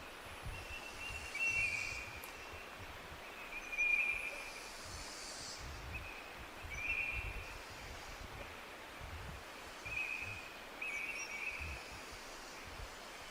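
A songbird repeating short trilled phrases every two or three seconds over a steady outdoor hiss, with swells of rustling.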